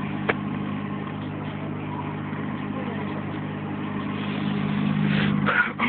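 A 2003 Buick LeSabre's 3.8-litre V6 idles steadily, with a single sharp click shortly after the start.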